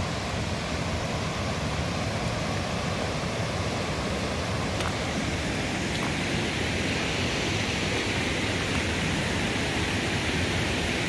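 A steady rushing noise with no clear pitch, growing a little brighter in the second half.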